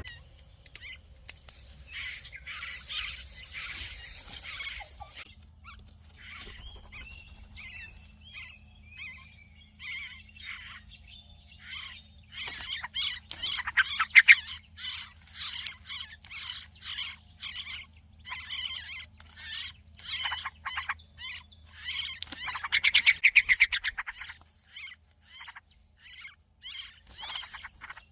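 Nestling birds at the nest calling for food: short calls repeated in quick runs, about two a second, getting denser and louder about halfway through. A brief hiss about two seconds in.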